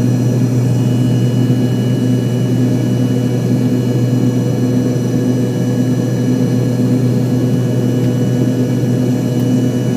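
Steady engine drone inside an airliner's cabin, with a deep hum and fainter high tones over an even rush.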